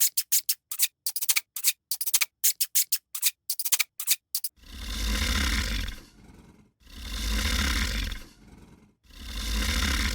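Rapid dry clicking and scraping, then from about halfway an animal's loud roaring calls, each lasting a second or more with a deep rumble, repeated three times with short gaps.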